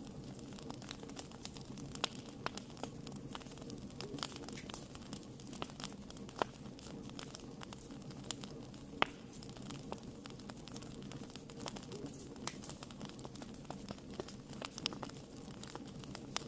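Wood fire burning in a fireplace: frequent irregular sharp crackles and pops over a low steady rumble of the flames.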